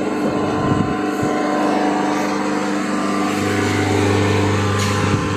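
Tata Harrier's 2.0-litre diesel engine running steadily at raised revs during a forced DPF regeneration. A deeper hum swells in after about three seconds, and there is one sharp click near the end.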